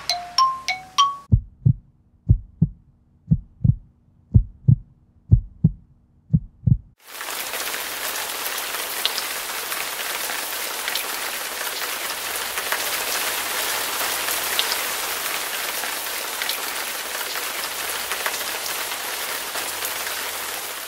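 A few bell-like dings in the first second, then about ten low thuds over the next six seconds. From about seven seconds in comes a steady hiss of water spray with faint pattering, from a hose-fed PVC misting frame, fading out at the end.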